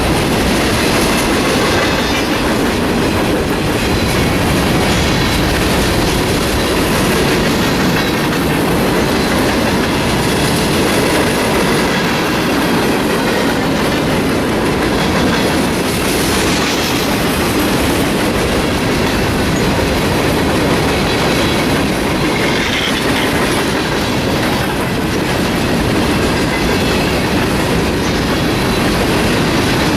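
Freight train cars rolling steadily past, their steel wheels clattering over the rail joints.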